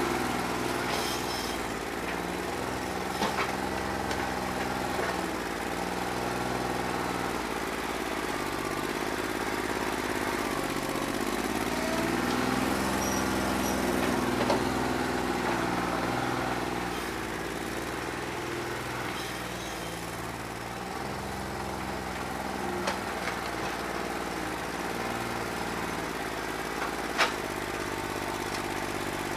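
New Holland 1320 compact tractor's diesel engine running, its speed rising and falling now and then, with a few sharp knocks over it. The engine has a bad injector that has not freed up once hot.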